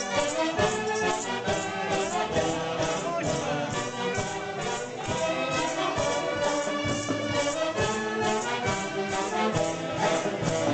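Andean festival orchestra playing, pitched melody lines over a steady beat.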